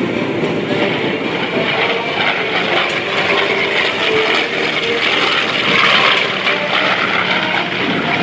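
F4U Corsair's big radial piston engine running in a flyby pass, swelling to its loudest about six seconds in.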